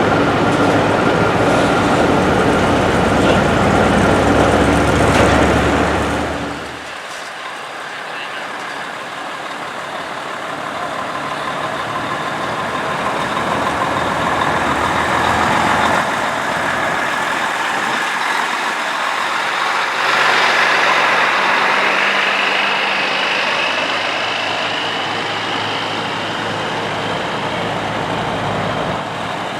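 Diesel truck engines running as classic big rigs move past. One loud engine runs close for about six seconds and then drops away, after which another truck builds up, with a whine rising in pitch about twenty seconds in.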